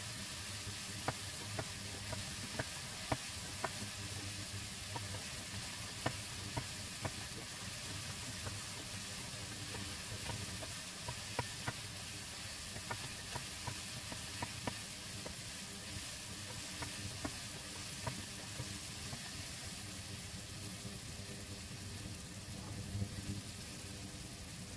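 Shimeji mushrooms and garlic sizzling steadily in oil in a nonstick wok as they are sautéed until cooked. A spatula scrapes and taps against the pan in scattered clicks.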